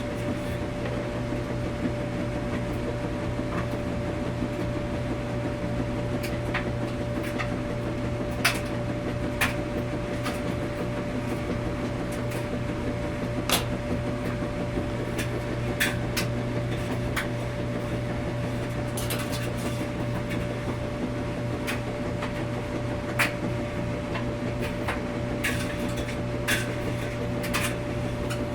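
Washing machine running: a steady hum with a constant tone, with scattered sharp clicks and knocks every second or two.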